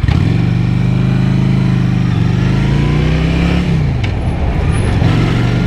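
Honda Shadow 750's liquid-cooled V-twin engine pulling under acceleration, its pitch climbing for about three and a half seconds, then dropping sharply as the next gear goes in, then running steady. Wind rushes over the helmet-mounted microphone throughout.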